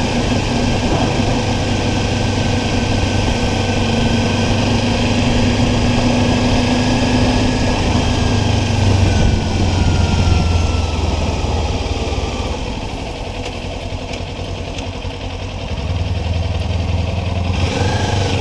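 Kawasaki Ninja 400 parallel-twin engine running under way. Its note falls about eight to eleven seconds in as the bike slows, stays quieter for a few seconds, then picks up again near the end.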